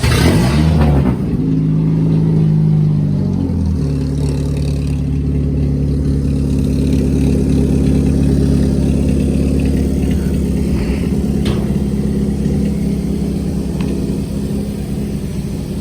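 Four-cylinder race car engine revving up in the first second, holding the higher revs for a few seconds, then dropping back to a steady idle.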